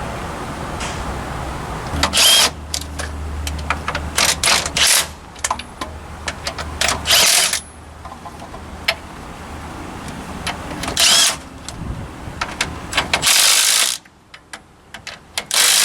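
Several short bursts of hissing spray, with light metal clicks between them, over a steady low hum: lubricant being sprayed onto the axle bolts before they are tightened.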